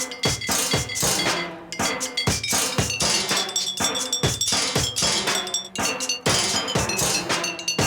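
Junk percussion: metal rubbish and cans struck in a fast, steady rhythm, with clanks and ringing metallic tones like cowbells.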